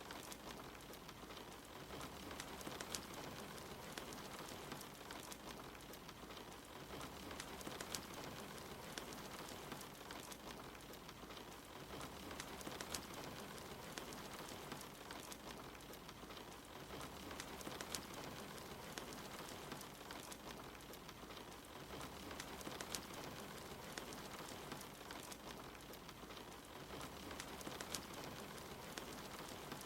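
Soft, steady rain mixed with the faint crackle of a wood fire in a fireplace, many small sharp pops scattered through it. The bed repeats about every five seconds, like a short loop.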